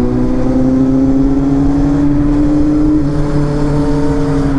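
Kawasaki Z800's inline-four engine running while riding, its pitch climbing slowly for about three seconds and then holding steady.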